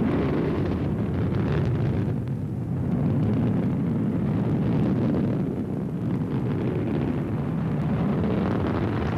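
Steady low rumble of an Ariane 4 rocket climbing under the thrust of its six Viking liquid-fuel engines and two solid boosters, dipping briefly about two and a half and five and a half seconds in.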